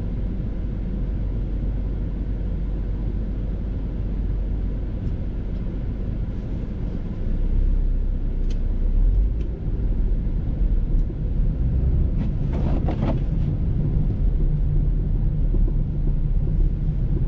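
Steady low rumble of a moving car, growing louder about seven and a half seconds in.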